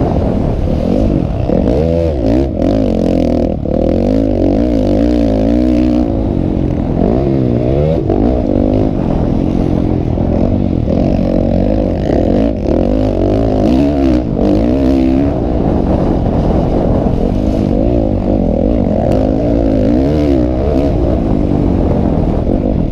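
Motocross bike engines racing, revving up and dropping back again and again.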